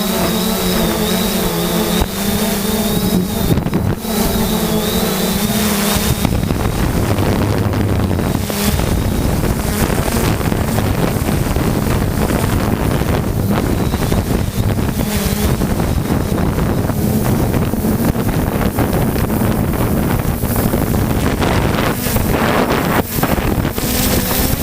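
3DR Solo quadcopter's electric motors and propellers humming at a steady pitch. About six seconds in, heavy gusting wind buffets the microphone and mostly drowns out the hum.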